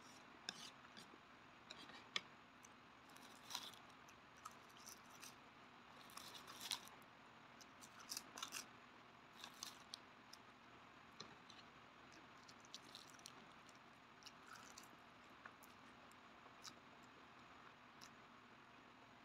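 Close-miked mouth sounds of someone eating instant black-bean noodles: soft wet clicks and smacks of chewing, scattered and irregular, busier in the first half and sparser later.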